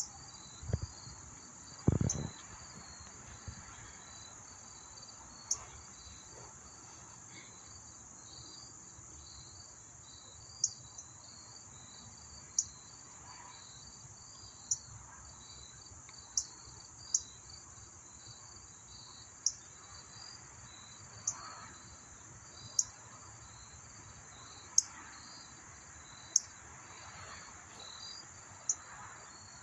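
Crickets and other insects chirping steadily, with a sharp, short chip note every one to two seconds, typical of an alarmed northern cardinal's chip calls. A single low thump comes about two seconds in.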